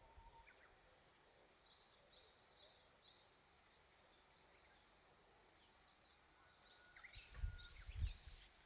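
Faint wild birdsong: scattered short, high chirps and brief whistled notes, with a clearer held whistle and a flurry of calls near the end. Two low thumps also come near the end.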